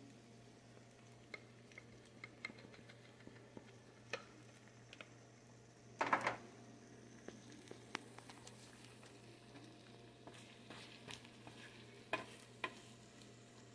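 Omelet with shrimp, steak and green pepper frying quietly in a nonstick pan: a faint sizzle with scattered small pops and clicks. A brief louder rustle comes about six seconds in, and a couple of sharper clicks near the end.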